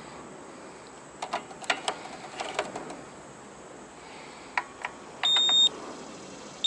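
Digital multimeter giving one steady, high-pitched beep lasting about half a second, near the end, after a scatter of sharp clicks from handling the meter and probes.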